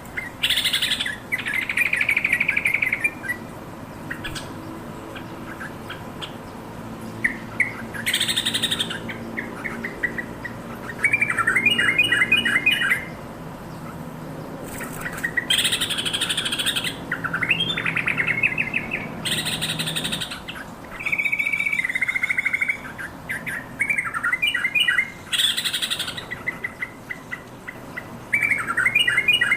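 Yellow-vented bulbul calling: bursts of quick chattering notes and harsh chirps, repeated every one to three seconds.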